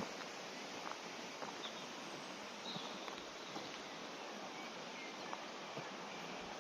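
Steady rush of river water under woodland ambience, with a few faint bird chirps and scattered light footsteps on the path.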